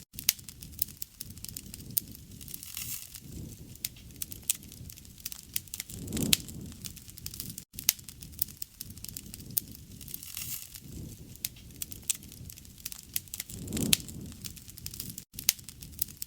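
Campfire crackling, with many sharp pops and snaps over a soft low rush of burning that swells every few seconds. The sound cuts out for an instant twice.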